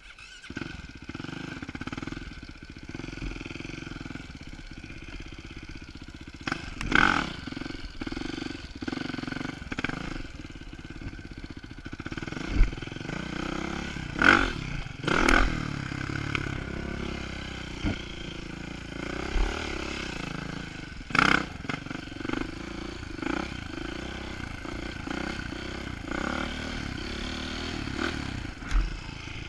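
Dirt bike engine running while riding, its pitch rising and falling with the throttle, broken by several sudden loud knocks, five or so, spread across the ride.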